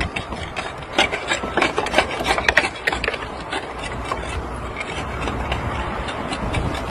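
Roof tile being nibbled into shape with a hand tile cropper: a quick run of sharp crunching snaps and grating over the first few seconds, then a low engine rumble underneath that carries on steadily.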